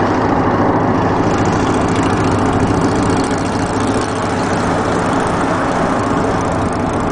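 Motorcycle engine running steadily while riding, under a steady rush of wind and road noise.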